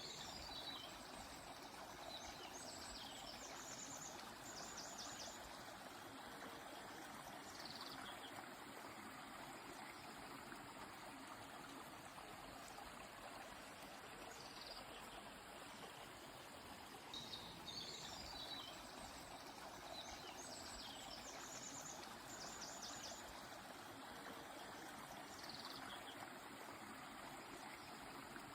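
Steady rushing of a flowing river, with a songbird singing short, high, trilled phrases over it several times.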